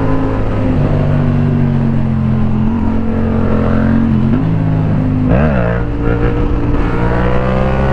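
Motorcycle engine running at road speed under a steady rush of noise. Its note holds steady and shifts pitch in small steps, with one quick rise and fall about five and a half seconds in.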